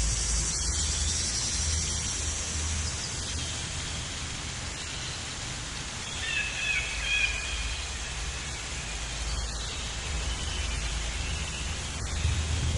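Outdoor nature ambience: a steady hiss over a low wind-like rumble, with a few brief high chirps about six seconds in and scattered faint clicks.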